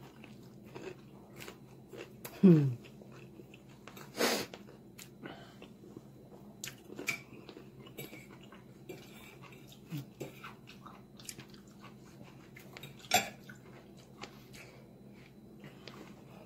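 A person biting and chewing fried food close to the microphone, with soft mouth clicks and smacks throughout. A short falling hum comes about two and a half seconds in.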